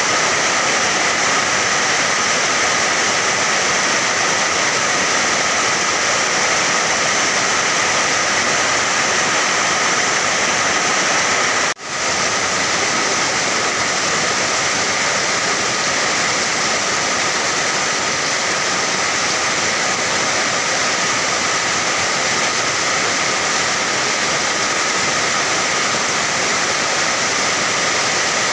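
Steady, even rain hiss with no drops or thunder standing out. It cuts out for a split second about twelve seconds in and resumes.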